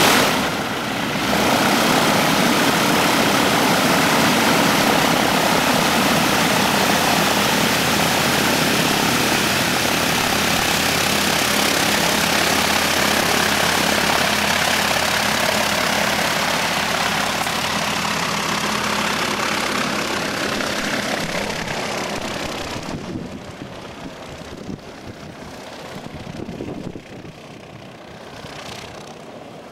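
Light propeller aircraft's engine running loud and steady, then dropping away sharply about 22 seconds in and continuing fainter.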